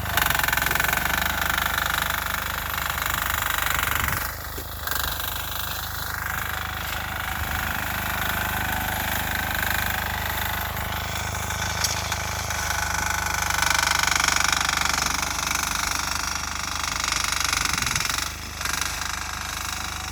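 Sears Suburban garden tractor's 6 hp air-cooled single-cylinder diesel engine running steadily with a knocking diesel clatter, dipping briefly in level twice, about four seconds in and near the end.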